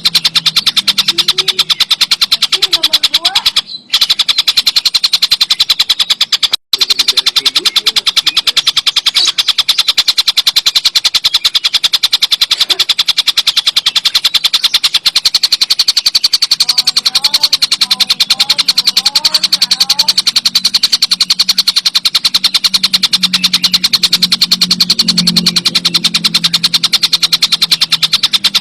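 Tengkek buto, a kingfisher, giving a loud, fast, even rattling call of many high notes a second, unbroken apart from two brief dropouts a few seconds in.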